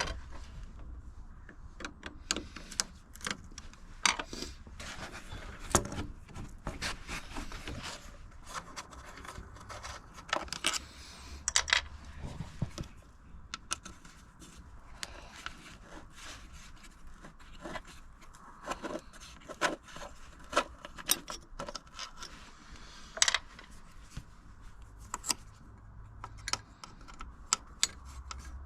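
Metal hand tools and engine parts clinking, clicking and scraping at irregular intervals during hands-on disassembly work under the bonnet, over a faint low hum.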